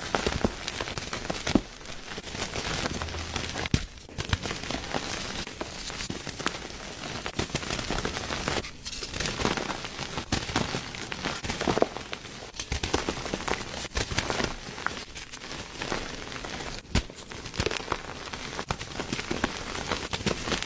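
Blocks of gym chalk being crushed, a dense run of crunching and crackling with a few brief pauses and occasional sharper snaps.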